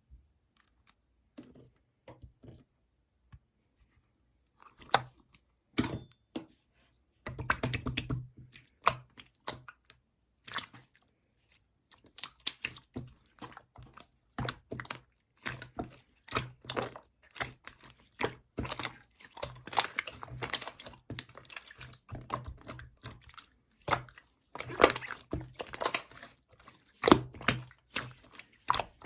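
Clear slime being squished and poked by hand, making irregular clicks and pops: only a few in the first seconds, then thick and continuous from about five seconds in.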